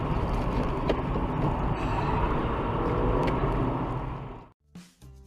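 Steady road and engine noise of traffic with a low rumble and a sharp click about a second in. It fades out about four and a half seconds in, leaving a brief hush as music begins.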